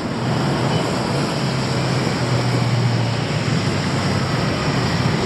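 Steady city traffic noise: a continuous wash of vehicle sound with a low engine hum that swells a little midway.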